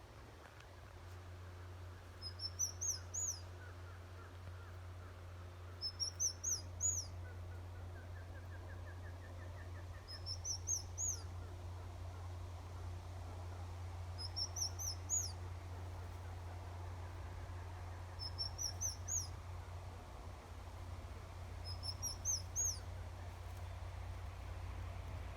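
A small bird calling six times in a short phrase of a few high notes, each sliding upward, about one phrase every four seconds. A steady low hum runs underneath.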